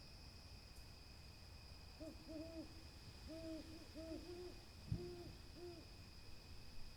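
An owl hooting: a quick series of about ten short hoots in small groups, starting about two seconds in and stopping about a second before the end. A faint steady high-pitched tone runs underneath.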